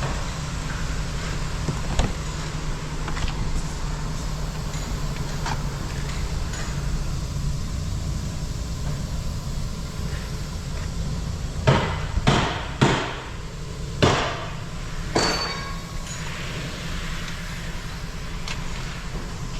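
A run of five sharp knocks, each with a short ring, about two-thirds of the way through, over a steady low mechanical hum.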